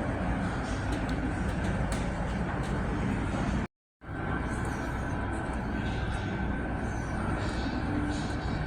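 An engine running steadily with a low rumble and general workshop noise. It drops out completely for a moment a little before halfway, then carries on.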